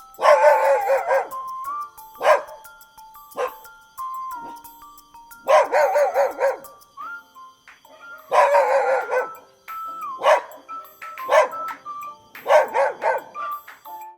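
A dog barking repeatedly, a few longer barks of about a second mixed with short ones, over light background music.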